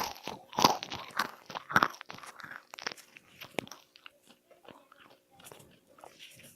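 Crunchy food being crunched close to the microphone: a quick run of loud crunches over the first two seconds, then thinner, fainter crackles.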